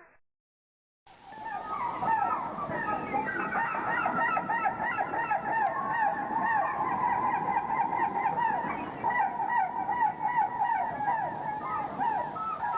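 A flock of waterfowl calling, many short calls overlapping in a dense, continuous chorus that starts about a second in.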